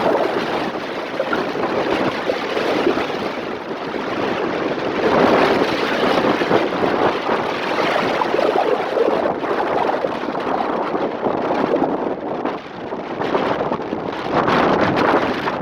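Strong wind buffeting the microphone over rough sea waves, a loud rushing noise that swells and eases.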